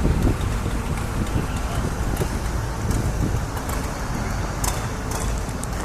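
Low rumble of a motor vehicle with wind buffeting the microphone.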